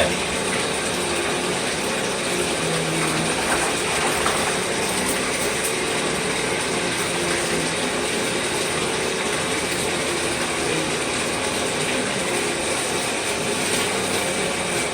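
Steady rinsing: tap water running and splashing while dirty vacuum cleaner filters are washed in a tub, an even hiss that holds level throughout.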